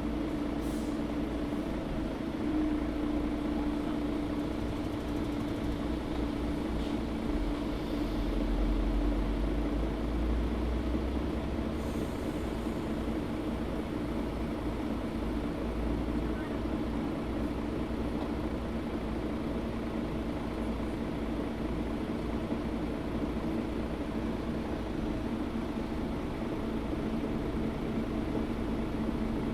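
Interior sound of a Mercedes-Benz O530 Citaro G articulated city bus running: a steady mechanical drone with a hum that settles in pitch at the start. A deeper rumble swells for a few seconds around the middle.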